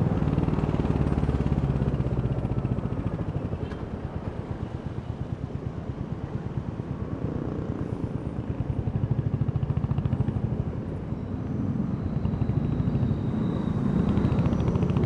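Royal Enfield Hunter 350's single-cylinder engine and exhaust thumping steadily while riding; it eases off about three seconds in and picks up again in the second half.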